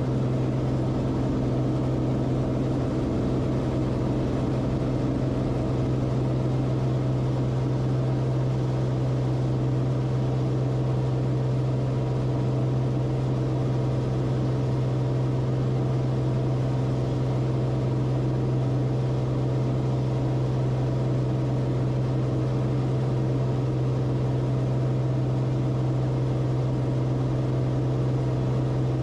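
Steady cabin drone of the Cessna Corvalis TTX in flight: its six-cylinder turbocharged engine and propeller running at a constant setting, with a strong low hum and no change in pitch.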